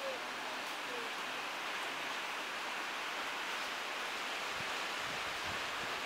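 Steady hiss of heavy rain, an even wash of noise without breaks.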